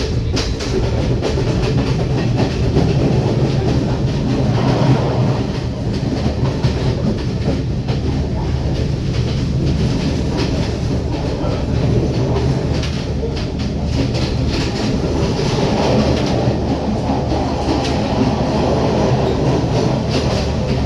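Train running steadily along the line: a continuous low rumble with the clicking of wheels over the rail joints.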